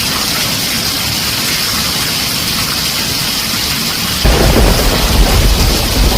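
Heavy rain drumming steadily on a tin roof. About four seconds in, a loud, deep rumble of thunder breaks in over it.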